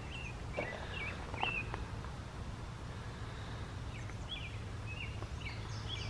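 Birds chirping outdoors, short separate calls every second or so, over a steady low background hum.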